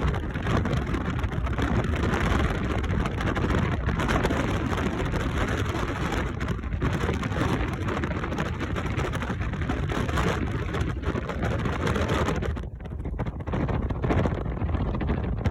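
Wind buffeting the microphone: a continuous rushing noise, heaviest in the low end, that gusts up and down and eases briefly about three-quarters of the way through.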